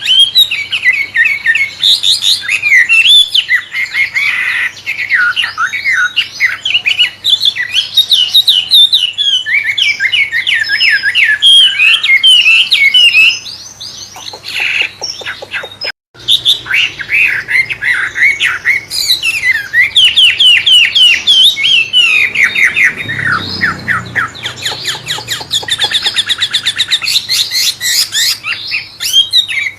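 A wambe songbird singing a long, loud, varied song of rapid chirps, sweeps and fast trills, in a style likened to a magpie-robin (murai). The song breaks off briefly about halfway through, then resumes.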